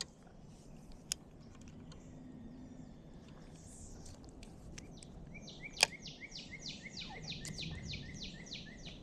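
A bird singing a rapid run of repeated high, downslurred notes, about four a second, starting about five seconds in and lasting some three and a half seconds. A few sharp clicks or taps are heard, the loudest just before the song's first second, over faint outdoor background noise.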